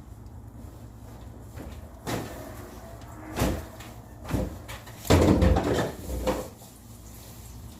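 A series of knocks and clatters, like hard objects being handled or set down, with the loudest and longest clatter about five seconds in.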